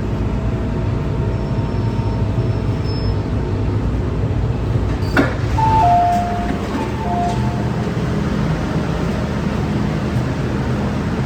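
MTR Tsuen Wan Line M-Train running, a steady low rumble. About five seconds in there is a sharp click, followed by a couple of seconds of short, steady high-pitched tones.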